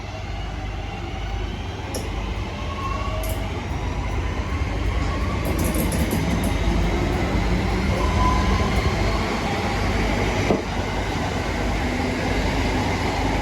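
Class 323 electric multiple units, two coupled, running on the line: a steady rumble of wheels on rail with a faint electric whine, growing a little louder.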